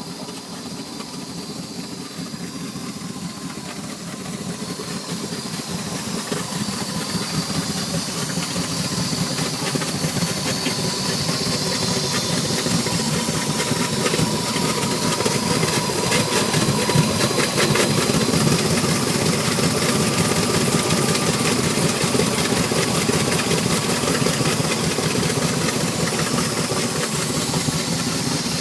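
Mastercraft X-25 ski boat's inboard engine running steadily at idle, with a steady hiss over it, while one exhaust muffler leaks water into the engine compartment. The sound grows louder over the first ten seconds or so, then holds steady.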